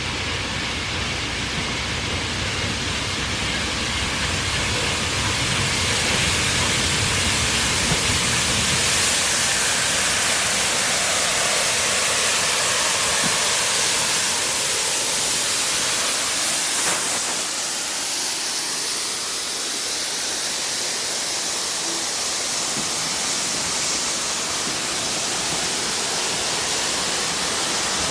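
Steam locomotive giving off a steady rushing hiss of steam. It grows louder about a quarter of the way in and eases off a little after the middle.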